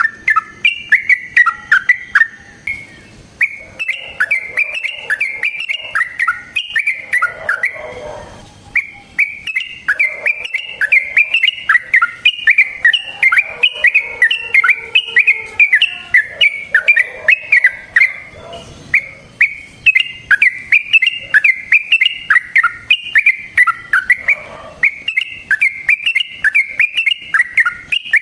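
Yellow-vented bulbul (trucukan) singing long, unbroken runs of quick, bubbling, up-and-down notes, with short pauses about three and eight seconds in. This is the long rolling song ("ropel panjang") of an excited bird, the kind used to provoke other trucukan into answering.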